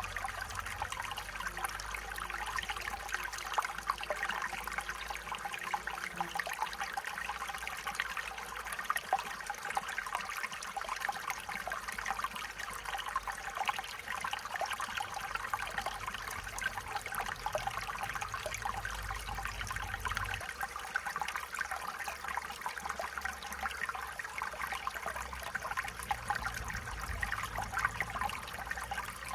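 Small stream trickling and babbling, a steady bright splashing of water over stones with a faint low rumble underneath at times.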